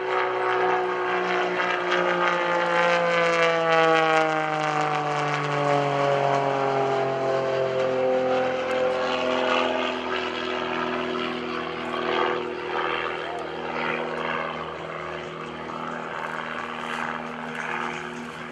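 Pitts S-1S aerobatic biplane's piston engine and Catto propeller droning in flight. The pitch falls steadily over the first several seconds, then holds lower and steady while the sound slowly fades.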